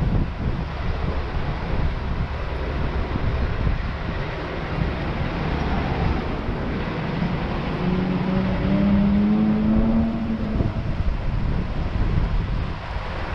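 A motor vehicle passing on the street, its engine note rising slightly in pitch from about halfway through for several seconds, over steady wind noise on the microphone.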